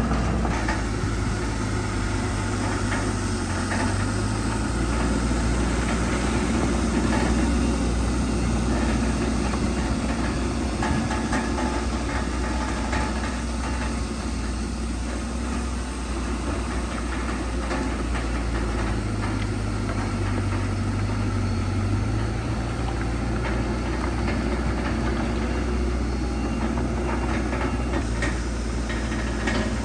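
Diesel engine of heavy earthmoving machinery running steadily, its low hum shifting in pitch twice as the load changes.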